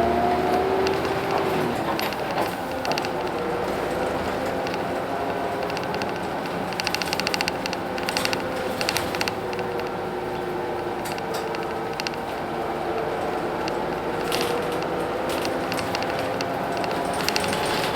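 Hino Blue Ribbon City bus with a P11C 10.5-litre diesel, heard from the front of the bus while it is running: a steady engine and drivetrain sound with whining tones that drift slowly in pitch. Bursts of rapid rattling come in twice, about seven seconds in and again near the end.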